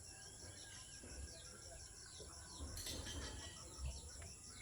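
Small birds chirping with many short, falling calls over a steady, pulsing high insect trill, with a few low bumps of wind or handling on the microphone.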